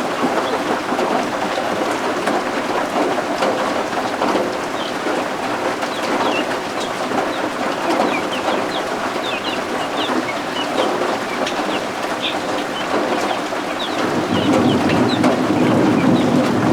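Steady rain falling, with baby guinea fowl (keets) peeping in many short, high chirps over it. A louder low rumble sets in near the end.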